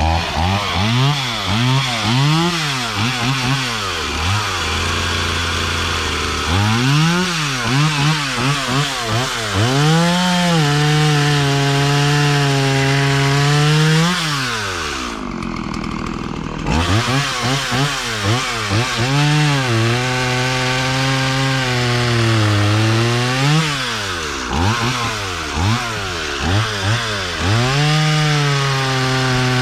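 Stihl MS170 two-stroke chainsaw with a new Hipa semi-chisel chain, revved in quick throttle blips and held at high revs for several seconds at a time while cutting a log. The engine note sags a little under load. About halfway through it drops back toward idle for a couple of seconds, then revs up again.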